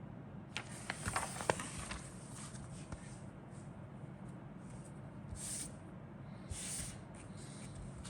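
Handling of plastic model-kit parts and packaging: a few light clicks and taps in the first couple of seconds, then two short rustles, over a steady low hum.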